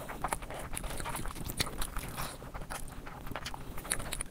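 A person chewing a mouthful of fried rice and fried chicken, heard as many quick, irregular clicks and smacks.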